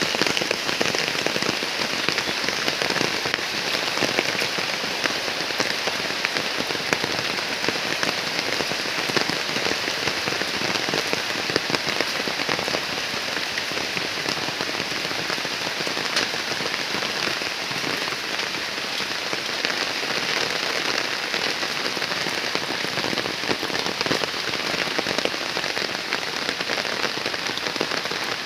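Heavy rain falling steadily, a dense even hiss of drops striking the ground and surfaces.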